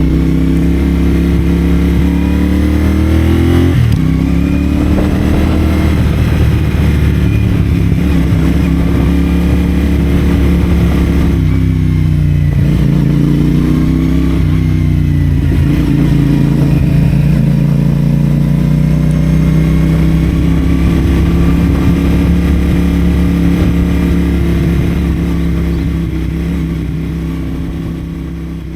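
CFMoto 450SR parallel-twin engine running through a Yoshimura AT2 slip-on exhaust while riding: revs climb, drop sharply at a gear change about four seconds in, then rise and fall at road speed. The sound fades out near the end.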